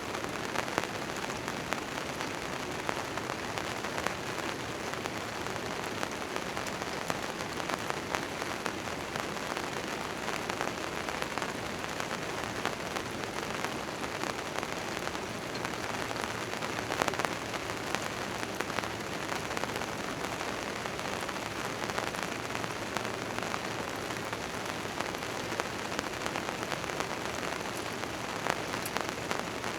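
Steady rain on a tent tarp, a constant patter dotted with sharp drops striking the fabric. A few drops land louder, one about halfway through and one near the end.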